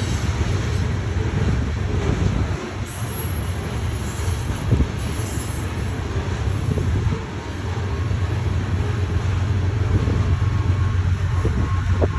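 Freight train of covered hopper cars rolling past close by: a steady, heavy rumble of steel wheels on rail, with a few knocks from the cars about five seconds in.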